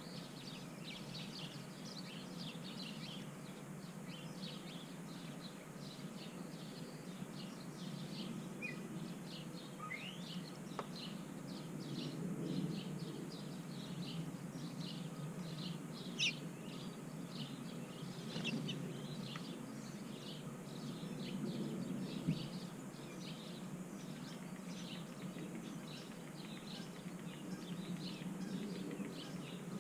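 Backyard birds chirping and calling continuously in many short notes, with a few louder, rising calls around the middle, over a steady low background rumble.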